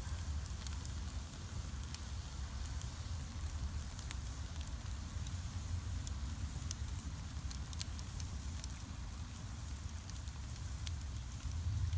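Wood bonfire crackling, with sharp pops scattered irregularly through it over a steady low rumble.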